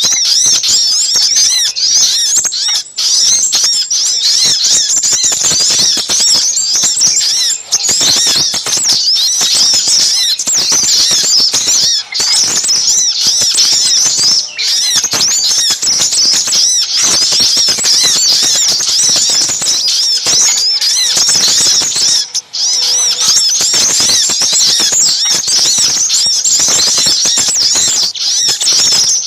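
A dense, continuous chorus of small birds: rapid high-pitched chirps and trills from little spiderhunters (sogok ontong) calling noisily, mixed with scarlet minivet (sepah raja) calls, played as a bird-lure recording.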